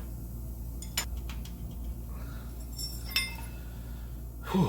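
Metal hand tools clinking as sockets and wrenches are handled: a sharp click about a second in and a ringing metallic clink around three seconds in.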